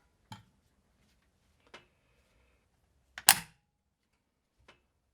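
Sharp metallic clicks and clacks of an AK-47 rifle's parts being handled during disassembly. There are four separate clicks, and the loudest clack comes a little past the middle.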